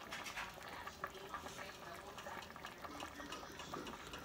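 Faint chewing and small mouth clicks as a person eats a spoonful of vegetable soup, over quiet room tone.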